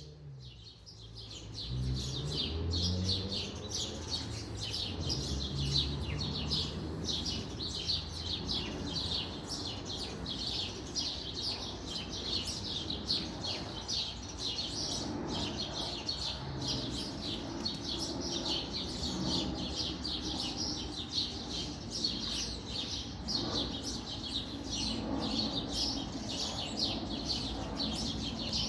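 A flock of small birds in a tree chirping all at once, a dense, unbroken chatter of many short high chirps overlapping each other. A low rumble runs underneath.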